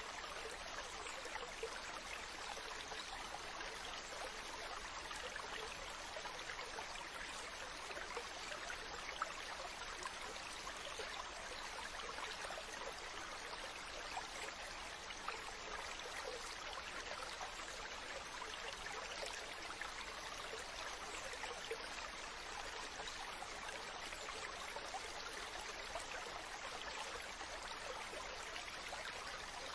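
Steady wash of ocean water: an even hiss with fine crackle and no distinct rise and fall of waves.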